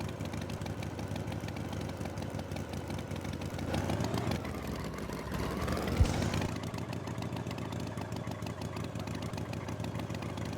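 Tractor engine idling steadily, with a rising sweep in pitch partway through and a single sharp thump about six seconds in.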